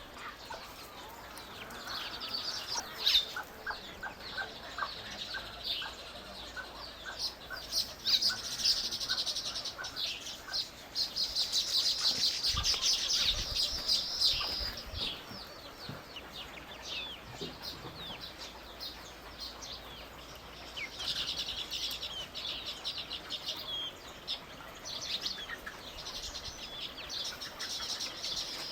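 Birds chirping and calling in dense, rapid high-pitched series, busiest near the middle and again toward the end.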